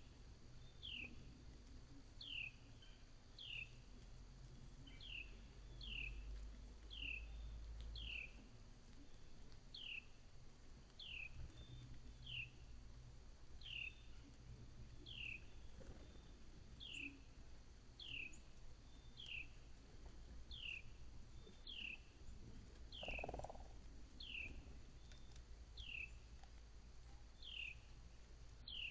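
A small animal's short, high chirp, sliding down in pitch, repeated steadily about once every second and a bit, faint.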